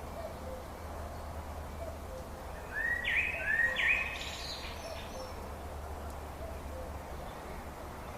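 Birdsong: a bird gives two quick rising calls and then a short higher flourish, a few seconds in, over a steady low hum and faint low notes repeating about once a second.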